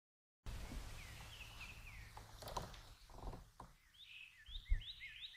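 Faint outdoor ambience after a moment of silence: birds chirping, then from about four seconds in a quick run of repeated high chirps, about four a second, with a few soft knocks.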